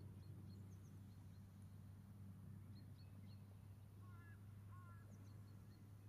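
Near silence with a steady low hum and faint, scattered high bird chirps; a couple of lower warbling bird notes come about four seconds in.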